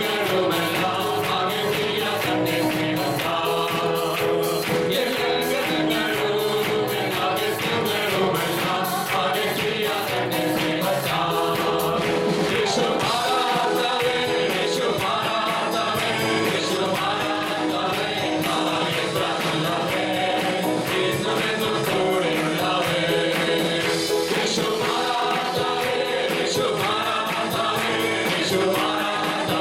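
Live worship music: a group of singers with a band, singing a gospel praise song with a steady beat.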